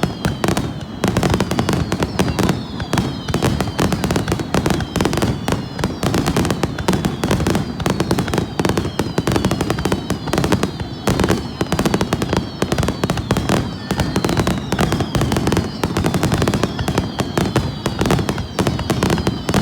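Fireworks crackling without a break, with many short falling whistles recurring about once a second.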